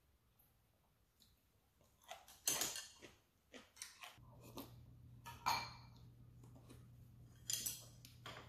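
Close-up eating sounds: after about two seconds of near quiet, a person chewing and smacking with a run of short, sharp mouth noises. A faint steady low hum comes in about halfway through.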